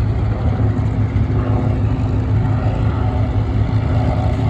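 Piston-engined WWII propeller warbird flying by, its engine droning steadily at an even pitch.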